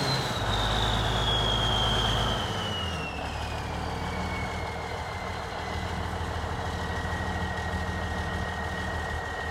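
Steiger Panther ST310 4WD tractor's diesel engine being throttled back to idle: its note steps down about two and a half seconds in while a high whine falls steadily in pitch, then it idles steadily.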